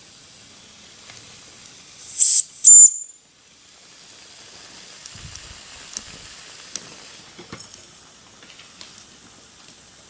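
Mamod TE1A live-steam model tractor's boiler hissing softly, broken about two seconds in by two short, loud blasts of escaping steam, the second with a thin whistling edge that cuts off sharply. This is an unexpected release while pressure is building, which the owner first takes for something going wrong and then decides is all right.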